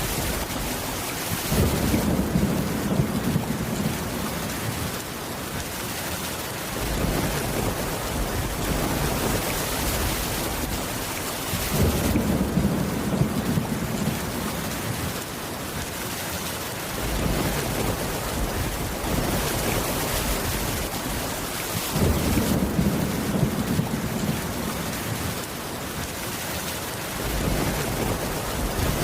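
Steady heavy rain with rolls of thunder: three low rumbles start suddenly about ten seconds apart, each lasting around five seconds.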